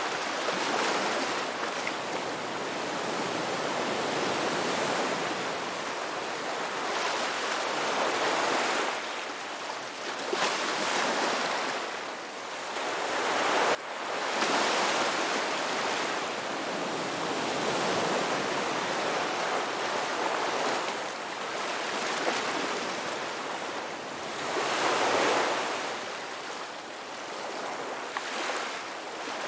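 Ocean waves breaking and washing ashore: a steady hiss of surf that swells and fades in surges every few seconds, with a sudden brief drop about halfway through.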